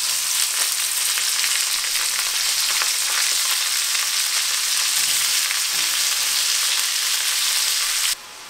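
Apple slices sizzling steadily as they fry in a skillet of hot butter and oil with garlic, with a few faint ticks as slices are placed in the pan. The sizzle stops abruptly near the end.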